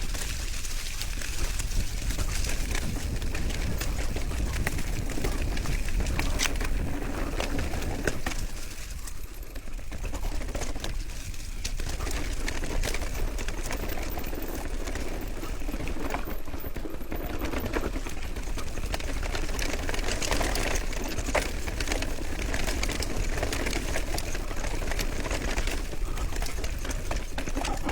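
Bicycle coasting fast downhill: steady wind rumble on the microphone with dense rattling and ticking from the bike over the road. The sound eases briefly about nine and eleven seconds in.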